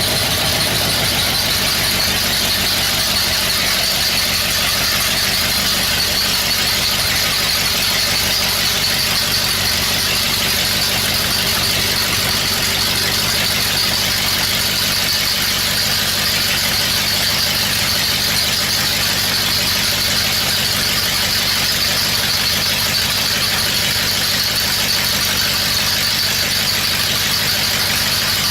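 1977 Oldsmobile 350 V8 running steadily, with a constant high-pitched whine over the engine note.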